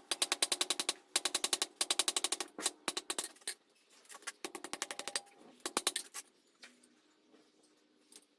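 Hammer blows on hot steel against an anvil, the tong blanks being drawn out. The strikes come in quick ringing runs of many per second, broken by short pauses, and die away about six seconds in.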